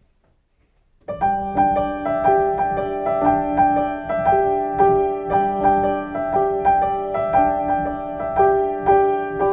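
Solo piano intro: chords and a melody struck in a steady, even rhythm, starting about a second in after near silence.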